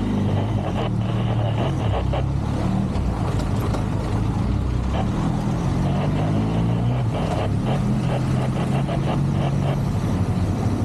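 Motorcycle engine running under way, its pitch rising and falling as the throttle opens and closes, over steady road and wind noise.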